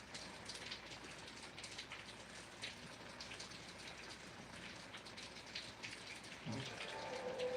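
Steady rain falling, with many separate drops tapping close by.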